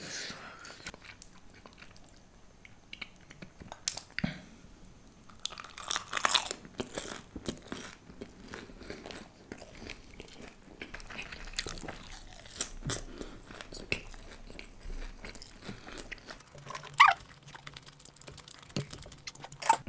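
Crunching and chewing of crisp fried food, with many small wet mouth clicks and smacks, and a louder crunch about six seconds in.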